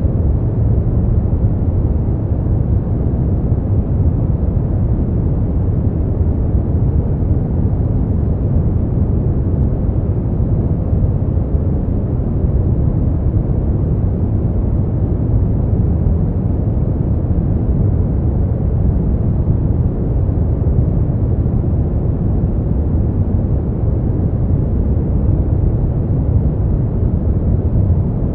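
Continuous sleep-noise track sold as white noise, but deep and dark: a steady rumbling hiss heavy in the bass with almost no treble, closer to brown noise. It holds perfectly even, with no changes or distinct events.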